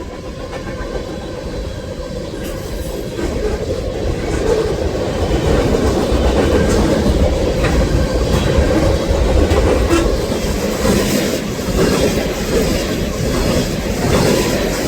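Train rolling past at close range: a steady rumble with scattered clicks of the wheels over the rails, growing louder about three seconds in.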